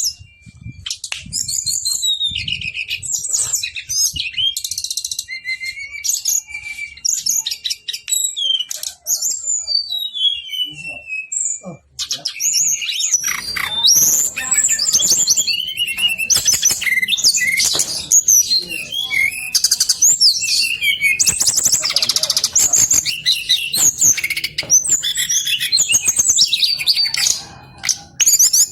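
Brown-chested jungle flycatcher singing: fast, varied phrases of high whistles and trills, almost unbroken. A short break comes about twelve seconds in, and after it the song is denser and busier.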